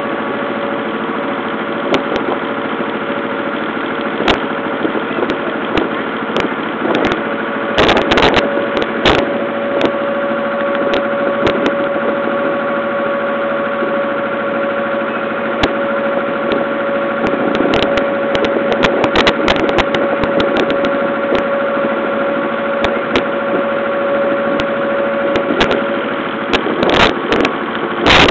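Small ferry boat's engine running steadily with a constant hum, with scattered sharp knocks. The steady tone drops away about two seconds before the end.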